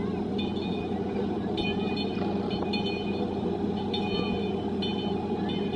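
Miniature ride train running along its track with a steady low rumble. A thin high-pitched ringing tone comes and goes about six times.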